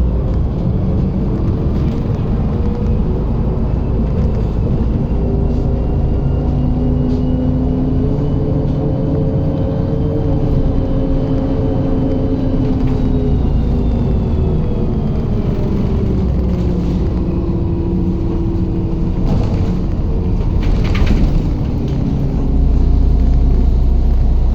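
MAZ-107 city bus heard from inside the passenger cabin, engine and drivetrain with road rumble: the pitch rises for about ten seconds as the bus accelerates, holds, then falls as it slows. A few short rattles or knocks come near the end, and the rumble gets louder just before the end.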